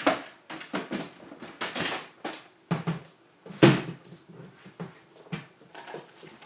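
A string of clatters and knocks as things are taken out of and moved around in a refrigerator, with one loud knock a little over halfway through.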